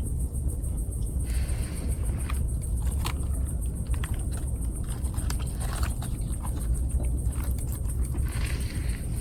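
Wood campfire crackling, with scattered sharp pops and short hisses over a steady low rumble.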